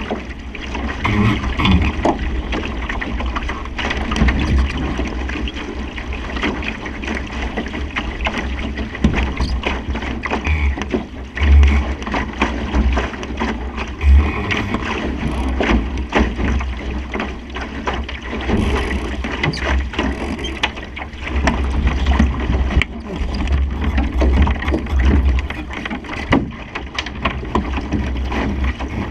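Wind buffeting the microphone and water rushing along the hull of a Supernova sailing dinghy under way in a stiff breeze, with frequent short knocks and splashes.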